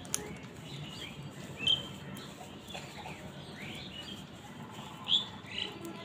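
Birds calling in short, sharp chirps, a handful of them scattered through the few seconds, the loudest about two seconds in and again about five seconds in, over a steady low background rumble.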